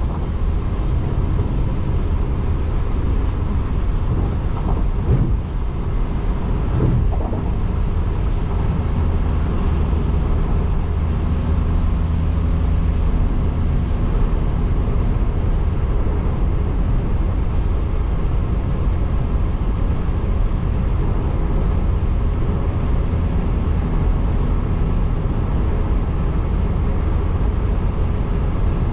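Car driving along the road: steady low rumble of road and tyre noise.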